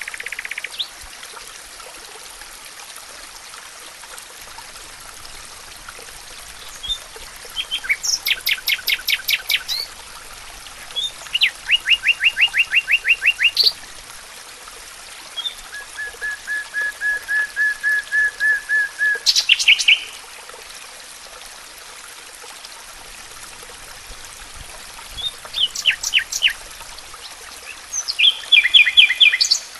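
Songbirds singing in a forest: several separate phrases of fast repeated notes, some high and rapid, one a lower even trill lasting about four seconds near the middle, with short chirps between them. A faint steady hiss runs underneath.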